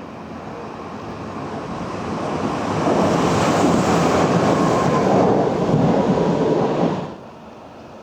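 A train passing close by on the line: a rumble that grows louder over about three seconds, then a loud rush of wheels on rail for about four seconds that cuts off suddenly.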